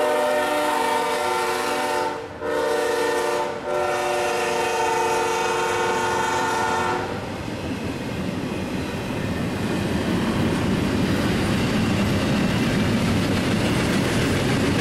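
A CSX freight locomotive horn sounds in long blasts, with two short breaks, and stops about seven seconds in. After that the steady rolling noise of double-stack container cars' wheels on the rails carries on as the train passes.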